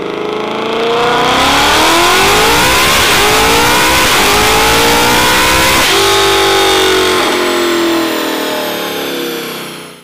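Car engine revving hard, its pitch climbing and dipping several times with a sharp change about six seconds in, then falling and fading away near the end.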